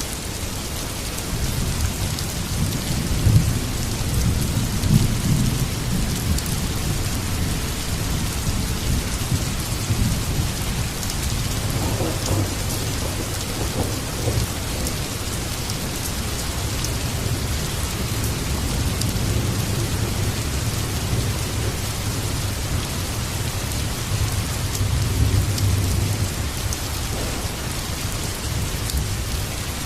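Heavy rain falling steadily, with thunder rumbling low beneath it, swelling a few seconds in and again near the end.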